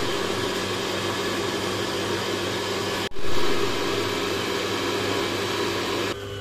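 A small electric motor running steadily with a constant hum. It drops out for an instant about three seconds in, comes back a little louder, and stops shortly before the end.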